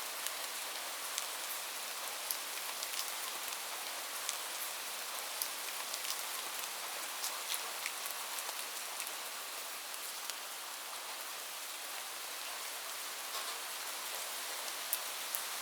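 Steady rain falling on a surface, an even hiss with scattered sharp ticks of individual drops.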